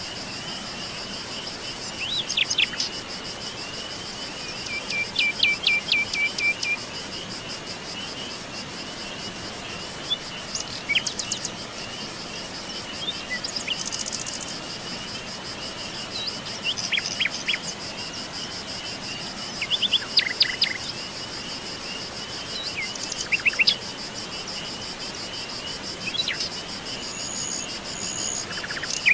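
Wild birds calling in scattered short chirps and brief trilled phrases over a steady, high, fast-pulsing insect trill.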